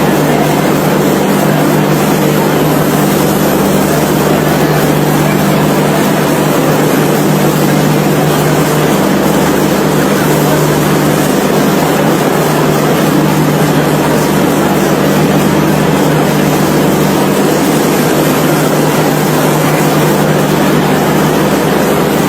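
Steady, loud running noise of a moving vehicle: an even rushing hiss over a constant low hum, with no breaks or changes.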